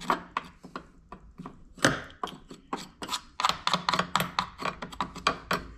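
A tool scraping and picking packed gunk out of a chainsaw's clutch-side housing, an irregular run of short scrapes and clicks that gets busier about halfway through.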